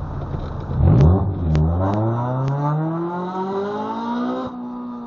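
Small 2.0-litre four-cylinder car engine, heard from inside the car, pulling hard from a launch about a second in, its pitch climbing steadily for about three seconds and then dropping at a gear change near the end. A few sharp ticks sound in the first few seconds.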